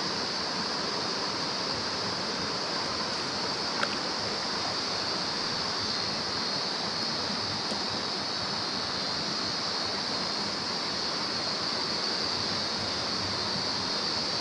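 Mountain stream flowing steadily over rocks, with a constant high-pitched drone above the rush of water.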